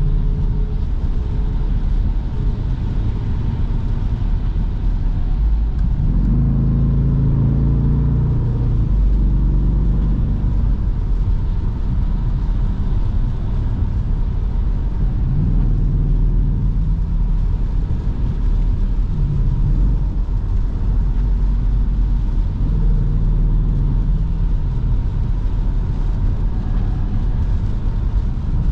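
Jeep Grand Cherokee SRT's V8 with a mid-muffler delete, running while driving: a steady low exhaust drone over road rumble, with the engine note picking up about six seconds in and again briefly later as it accelerates.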